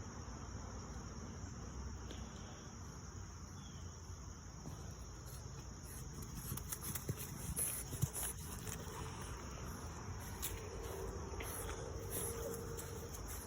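Steady high chirring of insects, like crickets, with scattered short clicks and taps in the middle and a faint held tone near the end.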